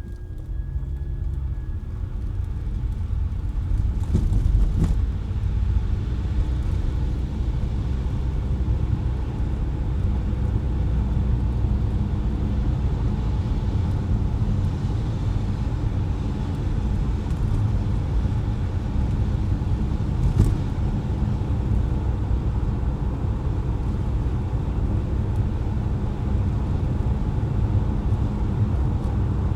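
Steady low rumble of a car driving on wet, slushy city streets, engine and tyre noise together, growing louder over the first few seconds. A few faint clicks come through, around four seconds in and again about twenty seconds in.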